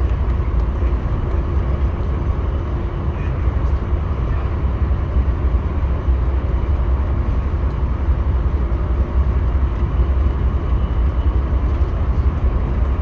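Steady low rumble of a Via Rail passenger train on the move, heard from inside the coach, with a faint steady hum over it.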